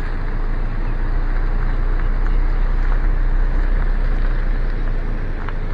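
Steady low rumble and rush of a car driving slowly with its windows down, the cabin open to the moving air.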